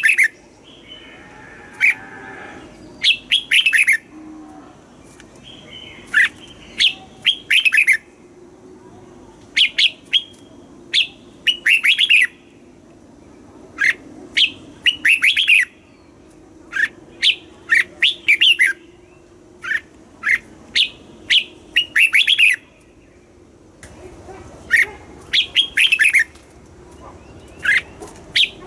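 Red-whiskered bulbul singing: short phrases of quick, bright chirping notes, repeated every second or two with brief pauses between.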